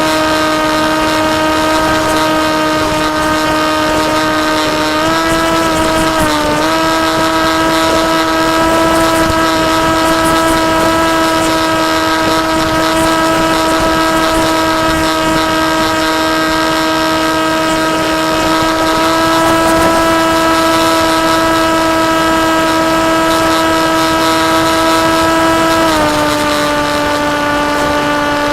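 Electric motor and propeller of a KT Wing RC flying-wing plane running at steady throttle, with a constant pitched whine over wind rush. The pitch steps up slightly about five seconds in, dips briefly, then drops near the end as the throttle is eased.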